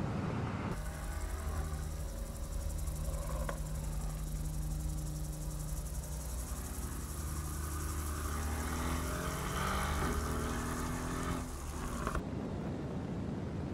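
Mercedes-AMG GT's twin-turbo V8 engine pulling hard, its pitch climbing, dropping at a gear change about ten seconds in, then climbing again over a steady low drone. Wind and road hiss are heard in the first second and after the engine sound cuts off near the end.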